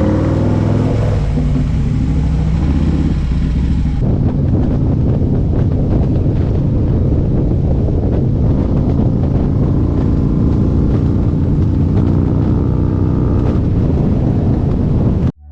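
Motorcycle engine running at road speed, with wind buffeting the microphone. The engine pitch shifts over the first few seconds, then holds steady.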